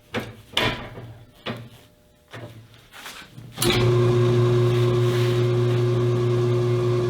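A few knocks and clicks of a tire and rim being handled. Then, about halfway in, the electric turntable motor of a John Bean tire changer starts and runs with a loud steady hum, turning the wheel to mount the tire.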